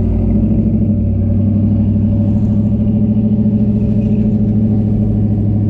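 An old hot rod's engine running at low cruising speed, a steady low exhaust note with an even pulse.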